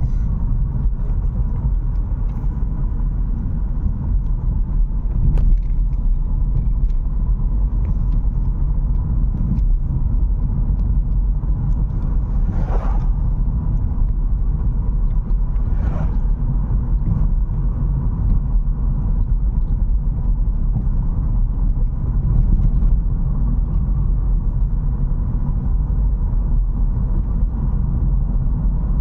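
Car driving along a road: a steady low rumble of engine and tyres. About halfway through there are two brief rushing sounds, three seconds apart.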